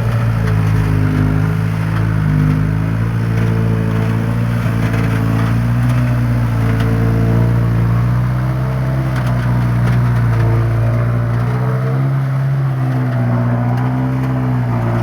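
Mitsubishi Canter truck's diesel engine running steadily under heavy load, pulling about 7 tonnes of iron and cement, with a deep hum that holds nearly constant pitch.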